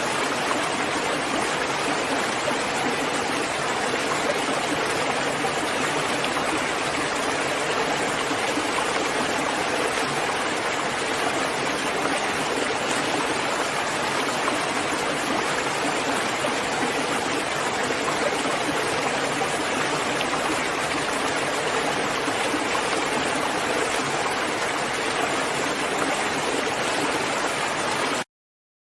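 Steady, dense rainfall, an even hiss with no single drops standing out. It cuts off suddenly to silence just before the end.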